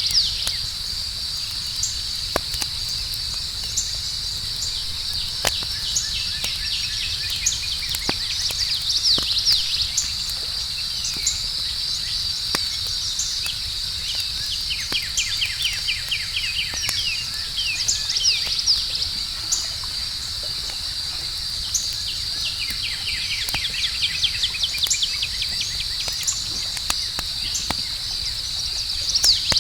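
Campfire crackling with scattered sharp pops over a steady high trill of night crickets, with a low rumble of the fire underneath. Several runs of quick, falling chirps come and go.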